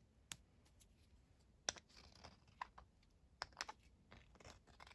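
Faint, irregular light clicks and taps of small metal and plastic motorcycle carburettor parts being handled, about a dozen spread through the few seconds.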